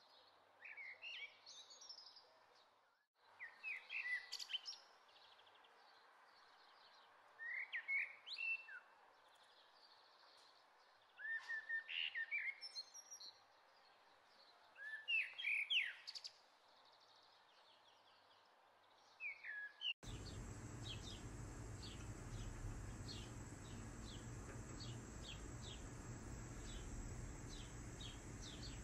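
A songbird singing short, quick phrases of rising and falling chirps, one phrase every three or four seconds. About two-thirds of the way through, the sound changes abruptly to a steady hiss and low rumble with a fast run of short repeated chirps.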